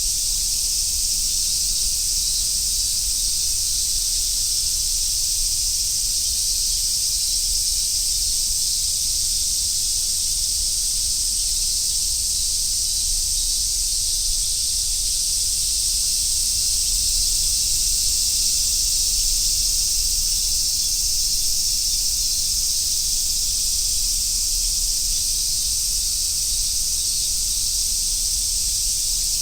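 A chorus of cicadas calling in summer: a steady, high-pitched, sizzling hiss that never breaks, with a low rumble underneath.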